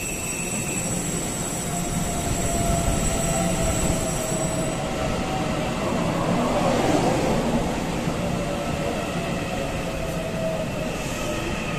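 Taiwan Railway train running, a steady rumble of wheels on track with a faint whine over it.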